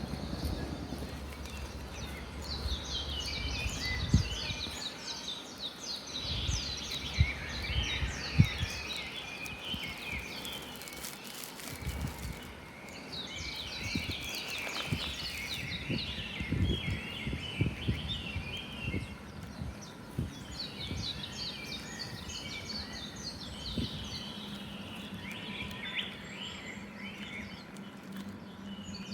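Woodland ambience with small songbirds singing repeated phrases of quick, high chirps over a steady background hiss. Scattered low thumps are mixed in through the first half.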